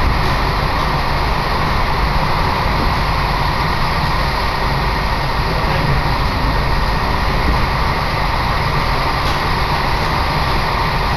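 Steady running noise of a train heard from inside the passenger car: an even low rumble with a hiss above it.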